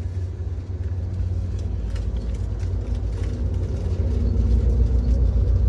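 Amtrak Auto Train rolling along the track: a steady low rumble of the moving train that grows louder toward the end, with faint clicks over it.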